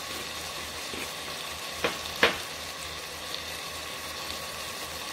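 Onion, tomato and pea mixture sizzling steadily as it sautés in an Instant Pot's stainless steel inner pot. Two sharp clicks about two seconds in.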